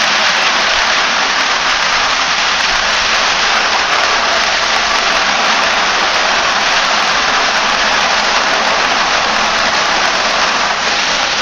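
Potatoes frying in a little hot oil with salted water added to the pan, giving a loud, steady sizzle as the water boils off in the oil.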